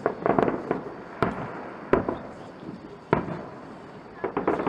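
Fireworks display: aerial shells bursting in a series of sharp bangs, a cluster of several at the start, single bangs about every second after that, and another quick cluster near the end, each followed by a short echoing tail.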